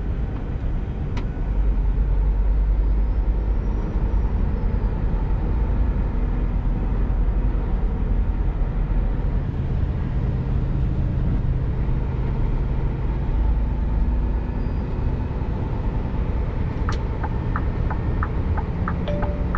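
Scania G410 tractor unit's diesel engine running steadily under way, pulling a loaded container trailer. Near the end, a turn indicator starts ticking at about two to three clicks a second.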